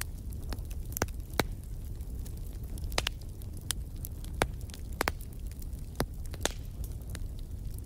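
Wood fire crackling in a fireplace: irregular sharp pops and snaps, about ten plain ones, over a steady low rumble.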